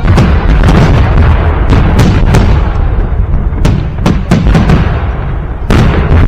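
Fireworks salute bursting overhead: a continuous din of deep booms with many sharp cracks, thickest near the start and again about two and four seconds in.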